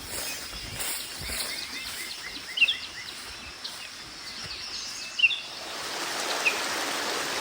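Birds chirping, with short sharp calls a few seconds apart and a run of quicker calls near the start, over the hiss of flowing river water that grows louder about two-thirds of the way through.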